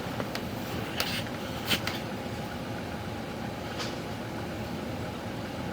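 A steady mechanical hum with a few short clicks or taps about one, two and four seconds in.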